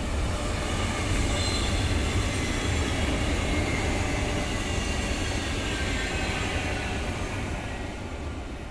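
Renfe Rodalies electric multiple-unit train passing close by on the track, a steady rushing rumble of wheels on rails with a faint high whine that slowly falls in pitch. It is loudest in the first few seconds and gradually fades toward the end.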